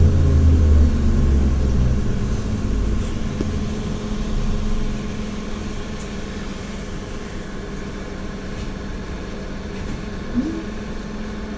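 ZiU-682 trolleybus slowing down: the low rumble and falling motor whine fade over the first few seconds. It then settles into a steady electrical hum, with a short rising chirp near the end.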